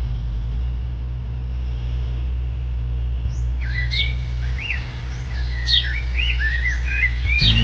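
Tractor engine running steadily as a low hum, with birds chirping over it from about halfway through in quick, sweeping calls.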